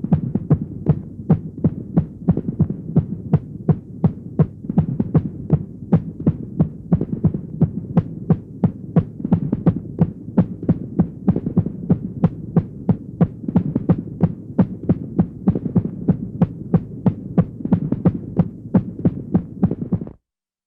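Horror sound effect of a fast, heavy heartbeat over a low humming drone. The beats are even, about two to three a second, and the sound cuts off suddenly near the end.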